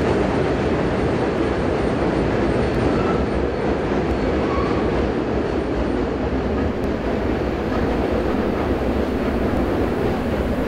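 Freight train cars rolling across a steel truss railroad bridge: a steady rumble of wheels and cars, with faint brief squeals a few seconds in.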